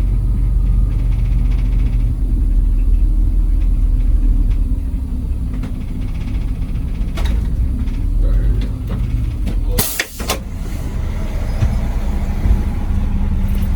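Charter coach's engine running with a steady low drone. About ten seconds in there is a short, sharp hiss of released air from the coach's air system.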